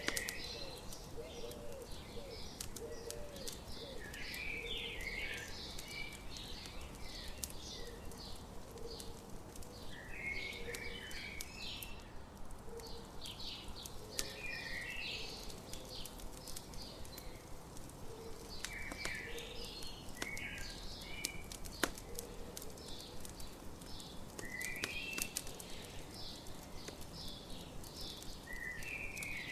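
Morning birds singing in repeated bursts of chirping calls, with low soft notes underneath, over a crackling campfire giving scattered small pops and one louder pop about two-thirds of the way through.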